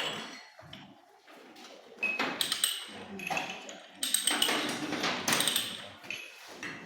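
Metal pipe and hand tools clinking and scraping in irregular strokes, with short ringing pings.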